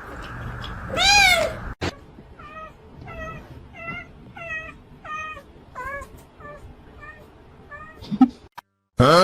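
A cat meowing: one loud meow about a second in, then, after a sudden cut, a quieter run of short repeated meows at about two a second.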